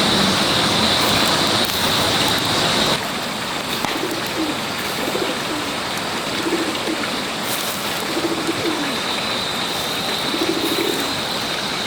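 Doves cooing several times in short low calls over a steady hiss.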